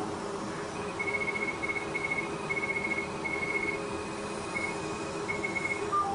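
Fraxel Repair CO2 laser beeping while it fires: a high, rapidly pulsing tone in several short runs with brief gaps, over the steady hum of the laser machine.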